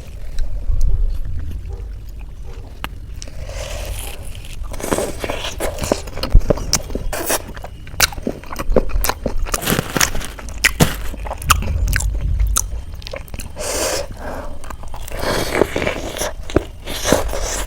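Close-mic eating sounds: biting into and chewing crisp fried samosa, with crunching, crackling and mouth clicks.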